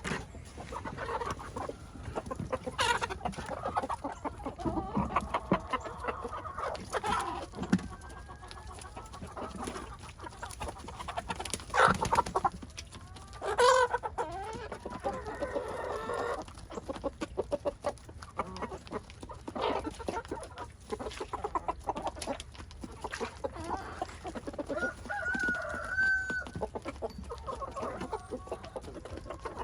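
Backyard chickens clucking and calling, with scattered sharp clicks and knocks among the calls.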